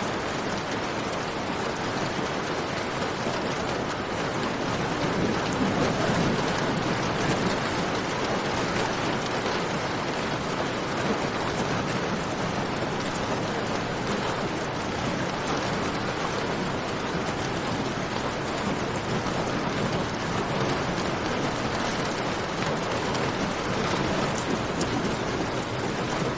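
Steady rain, a dense even hiss, with a campfire crackling faintly beneath it in scattered sharp ticks. About six seconds in, the sound swells fuller and deeper for a couple of seconds.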